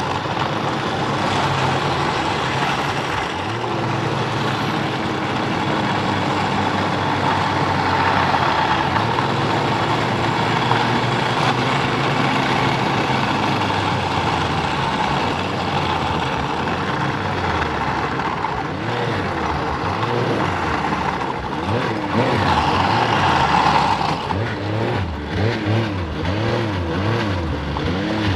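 Snowmobile engine running hard at speed under a dense rush of noise. Near the end its pitch rises and falls several times as the throttle is worked on and off.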